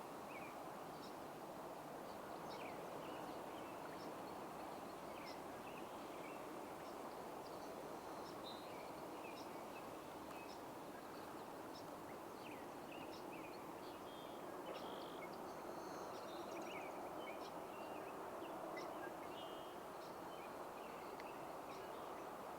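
Faint outdoor ambience: small birds chirping and singing here and there at a distance over a steady rush of wind.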